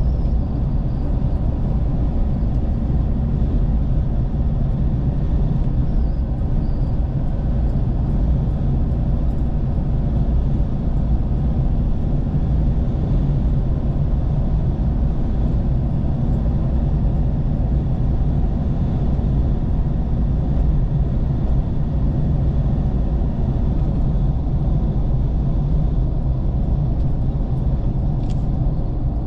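Steady low rumble of a vehicle on the move: engine and road noise, unchanging throughout.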